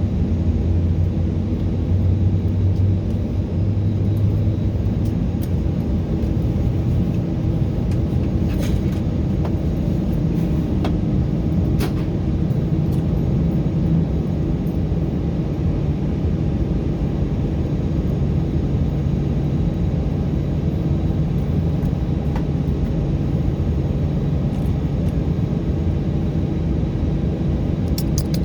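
Steady low rumble of an Airbus A319 heard from inside the cabin: engine noise and the airframe rumbling, with a few faint clicks and rattles.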